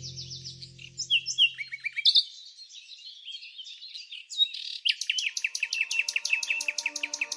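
Birds chirping and singing, a tangle of quick high chirps. From about five seconds in, a fast trill of repeated notes runs at roughly ten a second, and soft background music comes in under it.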